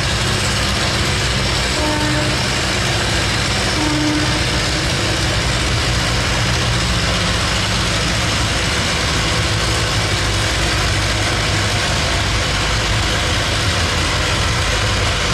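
Tractor engine running loudly and steadily under load at a tractor pull.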